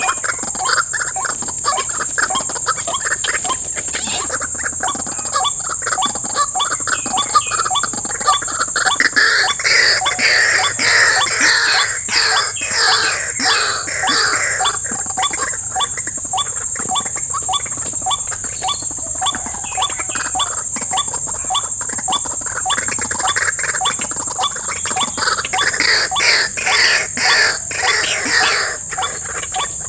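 White-breasted waterhen calls: a fast run of short repeated notes that swells twice into louder bouts, over a steady high insect drone.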